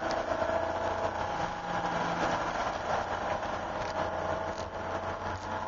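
1988 Porsche 911's air-cooled flat-six running steadily at part throttle, heard from inside the cabin, its pitch drifting only slightly, over a steady hiss of wet tyres on the track.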